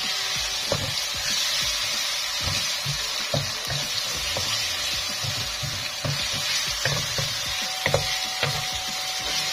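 Onions and ginger-garlic paste sizzling in hot oil in a stainless steel kadhai, with a steady hiss. A wooden spatula stirs them, scraping and knocking against the pan every second or so.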